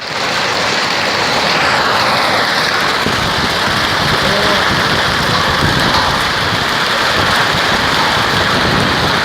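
Heavy hail and rain pelting down on hard surfaces: a dense, steady clatter of countless impacts.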